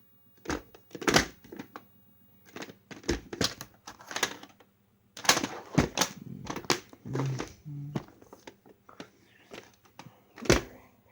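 Plastic VHS cassette cases being handled, with irregular clicks and knocks as they are picked up, opened and set down.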